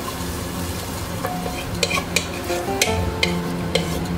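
Wooden spoon stirring rice and split black gram in water inside a metal pressure cooker: a steady sloshing swirl, with a run of sharp knocks of the spoon against the pot from about two seconds in.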